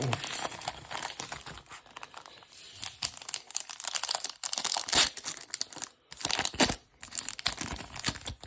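A trading card pack's wrapper being torn open and crinkled by hand, in dense irregular crackles with a few sharper rips about five and six and a half seconds in.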